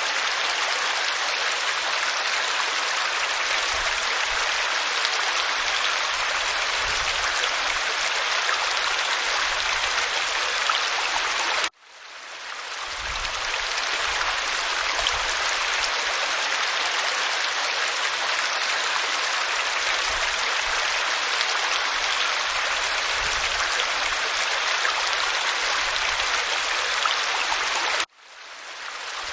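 Waterfall pouring over rock, a steady rushing splash of water. It cuts out abruptly twice, about twelve seconds in and near the end, and each time fades back in over a second or two.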